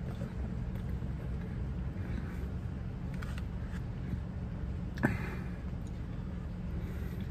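Faint mouth noises of chewing a sandwich over the steady low hum inside a parked car, with one sharp click about five seconds in.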